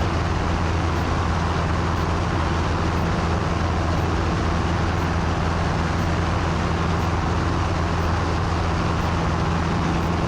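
Light aircraft's piston engine and propeller droning steadily in the cabin during flight.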